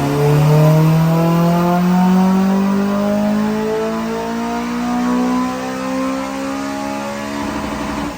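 Honda Civic FN2 Type R's 2.0 VTEC four-cylinder pulling hard under load through its Piper 3-inch cat-back exhaust, revs climbing steadily and evenly in one gear as on a rolling-road power run. The engine is backed off right at the end and the revs begin to fall.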